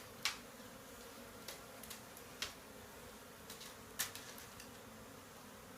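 A honey bee colony buzzing as a faint, steady hum, broken by a few sharp clicks, the loudest about four seconds in.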